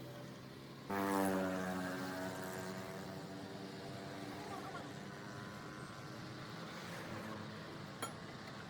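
An engine running: it comes in suddenly and loudly about a second in, then carries on at a steady pitch, slowly easing off, with a short sharp click near the end.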